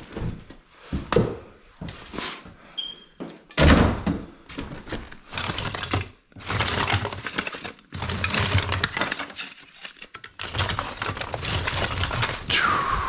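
Lath-and-plaster debris being broken up and tossed by hand: repeated clattering, cracking and thunks, with one loud hit a few seconds in. A short falling squeak comes near the end.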